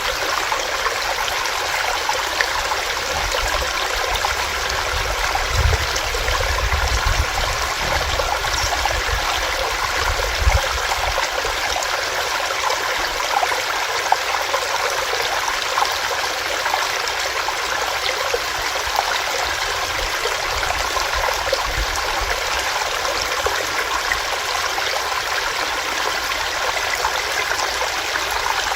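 Small rocky stream running over stones, a steady rushing and babbling with no change in flow. A few brief low rumbles come through in the first ten seconds or so.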